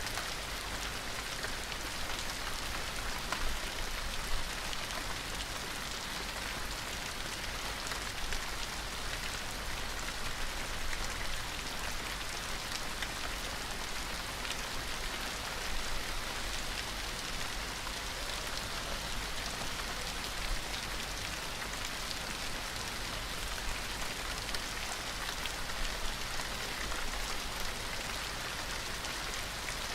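Gentle rain falling steadily: an even hiss of rain on a surface, with individual drops pattering through it.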